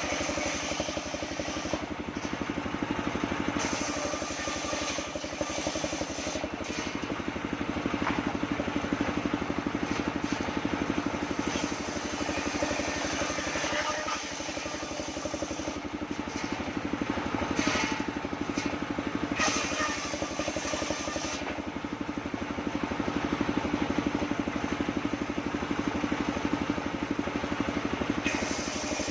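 Engine of a homemade circular-saw sawmill running steadily, its loudness swelling and easing over spells of several seconds.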